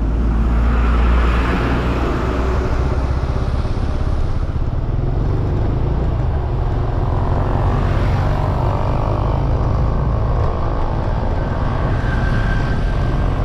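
Steady road noise from a motorcycle ride through traffic: engine and tyre sound with a low rumble of wind on the microphone, heaviest in the first few seconds.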